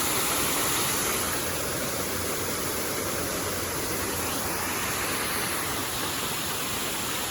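Steady loud rushing of wind over the microphone while cycling, an even roar with no distinct tones, cutting off suddenly just after the end.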